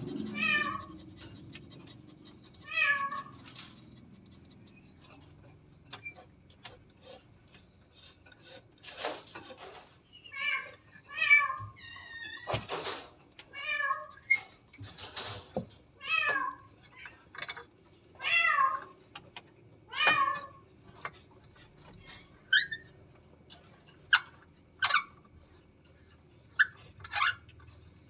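Domestic cat meowing over and over, more than a dozen short calls a second or two apart, with a few sharp knocks between them. The cat is a pregnant queen close to giving birth, and repeated meowing like this is one of the signs of coming labour.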